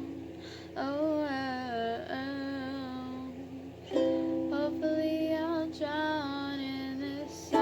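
Music: a voice singing a wordless melody in long held notes that glide between pitches, in three phrases, over a soft accompaniment.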